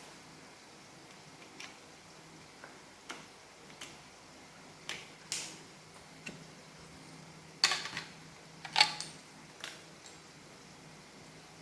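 Irregular clicks and taps of Roomba robot vacuum parts being handled and fitted together, some faint and a few sharper knocks about two-thirds of the way through.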